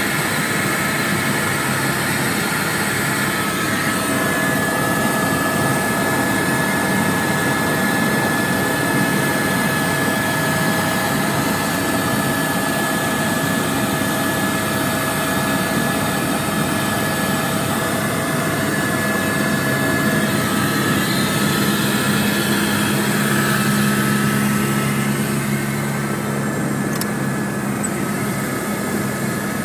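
Helicopter noise heard from on board: a loud, steady drone of engine and rotor with a constant whine running over it.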